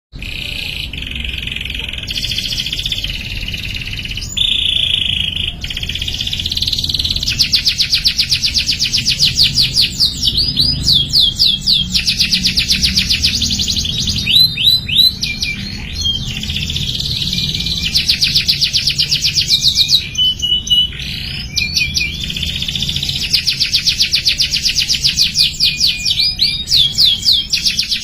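Young domestic canary singing a long, near-continuous song of fast rolling trills, broken now and then by quick up-and-down sweeping notes, over a faint steady low hum.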